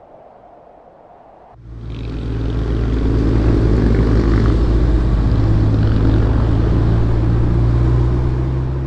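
BMW Z4 roadster engine running at a steady pitch as the car drives along, with wind and road noise in the open cockpit. It comes in suddenly about a second and a half in, after a quiet opening.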